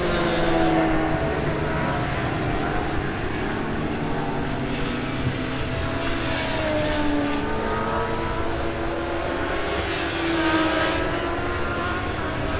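Superbike racing motorcycles running at high revs on track, several passing in turn, each engine note sliding down in pitch as it goes by.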